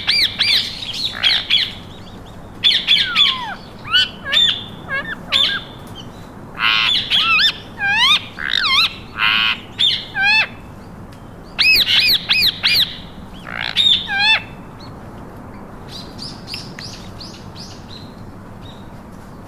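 Pet parakeets squawking in a run of short, harsh calls, many sweeping up and down in pitch. The calls stop about fourteen seconds in, and a few fainter chirps follow.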